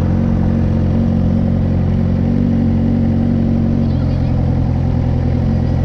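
Suzuki GSX-R 600's inline-four engine with an M4 aftermarket exhaust running steadily, its pitch lifting slightly about two seconds in and settling back near four seconds.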